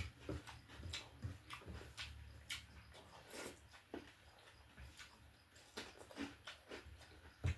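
A person chewing and eating close to the microphone, with irregular wet mouth smacks and clicks several times a second.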